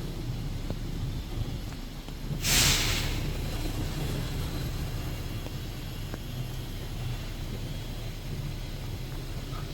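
Steady low rumble of a city bus running in traffic, with one short, loud hiss about two and a half seconds in.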